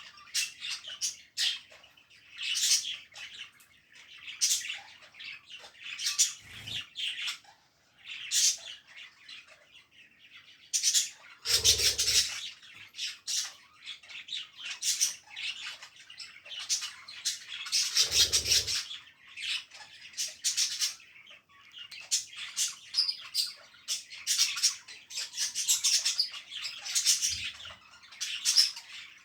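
Pet budgerigars chirping and squawking in a rapid, continuous chatter of high-pitched notes. Twice near the middle, about six seconds apart, a louder burst comes with a deeper, fuller sound under the chirps.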